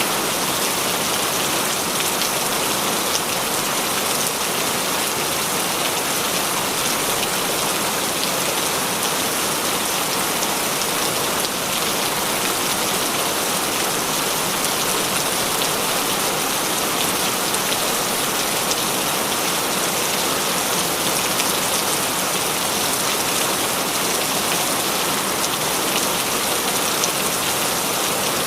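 Heavy rain falling steadily, a dense even hiss of drops with fine scattered patters on surfaces.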